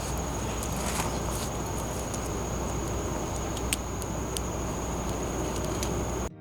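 Campfire crackling, with a few sharp pops spread out over a steady hiss and a constant high-pitched tone.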